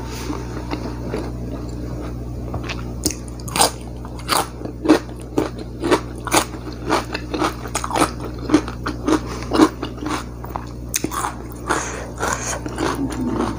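Close-miked mouth sounds of a person eating fried duck with raw salad vegetables: chewing with sharp, regular crunches about twice a second, starting a few seconds in.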